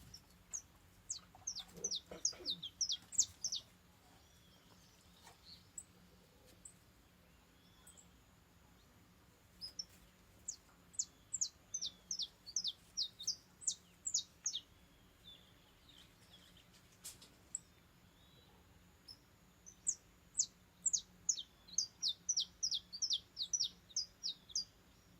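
Saffron finch (canário-da-terra) singing in three bouts of quick, high notes, each note sliding downward, with pauses of several seconds between bouts.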